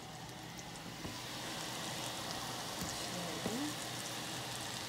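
Chicken drumsticks frying in hot olive oil and butter in a skillet: a steady sizzling hiss with fine crackles.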